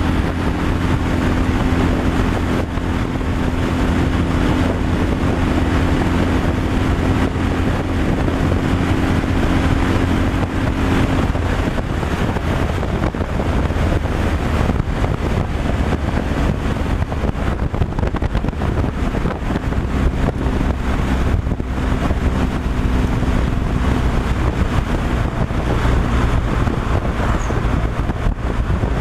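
Truck driving down the road: steady engine drone with tyre and wind noise. The engine's pitched hum fades and lowers about eleven seconds in.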